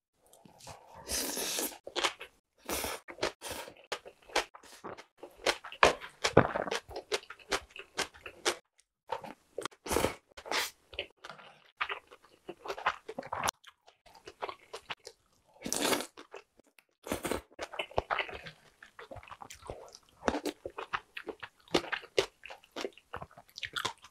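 Close-miked chewing of mouthfuls of raw-radish-salad bibimbap and stew: an irregular run of crunches and wet mouth sounds with short pauses between bites.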